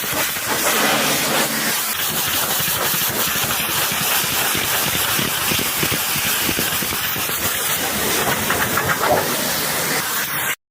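High-pressure water jet from a pressure washer spraying onto a truck, a steady loud hiss that cuts off suddenly near the end.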